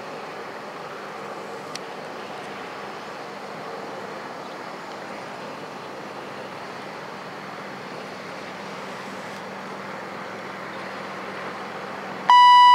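Freight train's loaded grain hopper cars rolling past at a distance: a steady, even rumble of wheels on rail. Near the end, a short, loud electronic beep.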